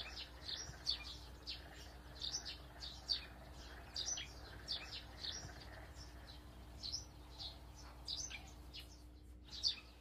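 Small birds chirping, short high chirps about twice a second, many of them falling in pitch, over a faint low steady hum.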